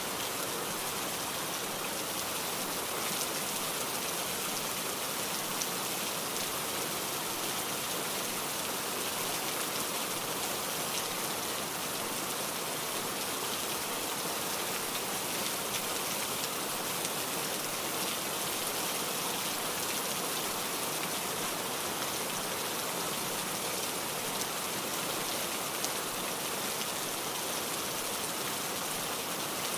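Steady rainfall: an even, unbroken hiss of rain falling on surfaces, with no change in strength.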